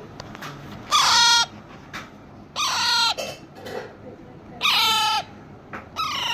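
Pet parrot calling: four loud, pitched calls of about half a second each, repeated every second and a half to two seconds.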